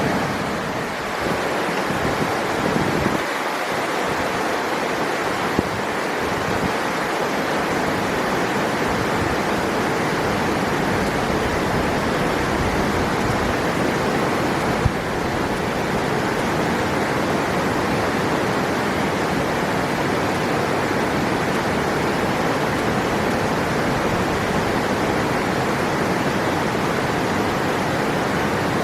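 River water rushing in a steady, even roar of white noise, with two brief ticks, one about six seconds in and one about fifteen seconds in.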